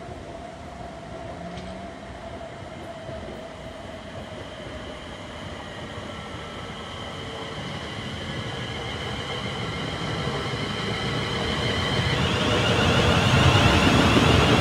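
Class 350 Desiro electric multiple unit approaching and drawing alongside, growing steadily louder, with a high steady whine. About twelve seconds in the whine changes as the front passes, and wheel-on-rail rumble swells as the coaches run by.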